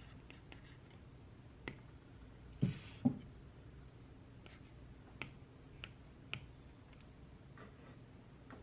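Scattered desk sounds while studying: a few sharp clicks and taps, with two louder knocks about two and a half and three seconds in and a brief rustle between them.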